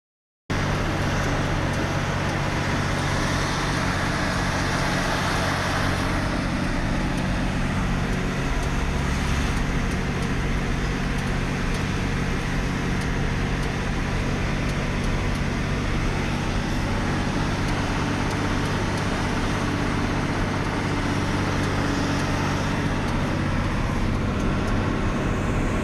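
Truck engine running at a steady drone with road noise while driving.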